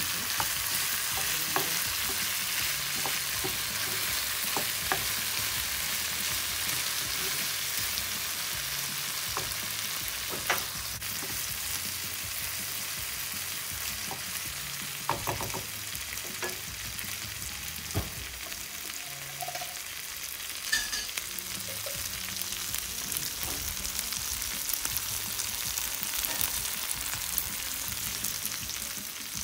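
Beef liver sizzling as it stir-fries in a frying pan, with a wooden spatula stirring it and knocking and scraping against the pan now and then in short clicks.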